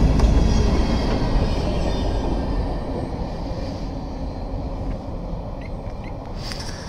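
The tail end of a freight train of boxcars rolling past on the tracks. Its rumble fades steadily as the last cars move away.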